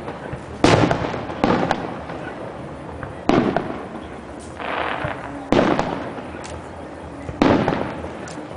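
Fireworks bursting overhead: five loud bangs one to two seconds apart, each with a fading tail, and a softer hiss about halfway through.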